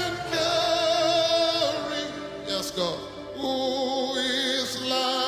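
Slow worship music: a singer holds long wavering notes over a soft instrumental backing, with a short break in the middle.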